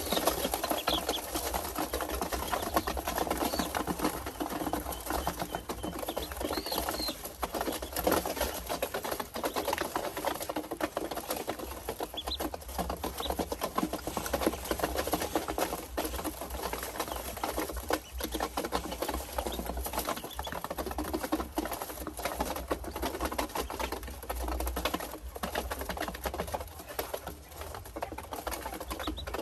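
A dense, rapid pattering and clicking runs throughout, with a few short high peeps from ducklings in the first seconds.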